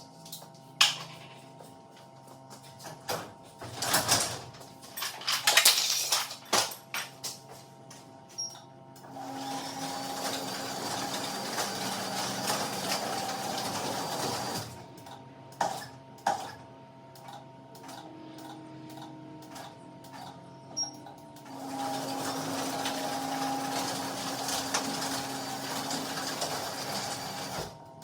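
Garage door opener motor running the door through two travels, each about five to six seconds, with a steady hum and whine. A cluster of knocks and clicks comes before the first run.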